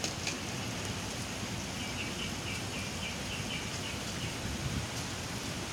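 Steady outdoor background hiss. For about two seconds midway, a bird chirps a quick run of short, evenly repeated high notes.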